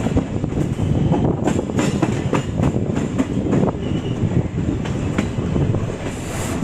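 Passenger train running along the track: a steady heavy rumble with wheels clattering and knocking over the rails.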